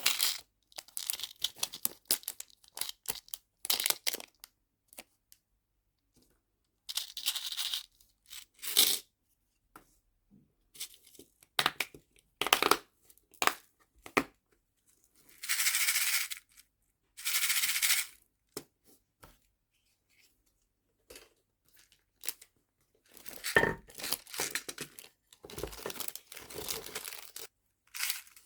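Nail charms and small plastic packets and storage boxes being handled: crinkling plastic, light clicks and taps, and two longer tearing rustles of about a second each midway.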